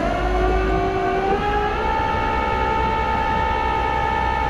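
Tow truck's hydraulic winch drive whining as the engine speeds up. The whine climbs in pitch over the first two seconds, then holds steady over a low engine rumble.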